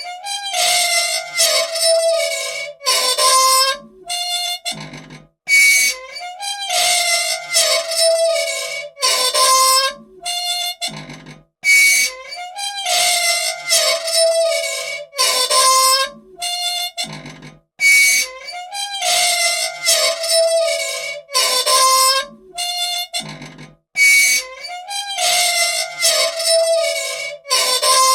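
Squeaky old machine's dry metal parts squealing and creaking, high pitched squeals that slide in pitch, cutting out briefly and starting again in a cycle about every six seconds; the squeak of unoiled pivots.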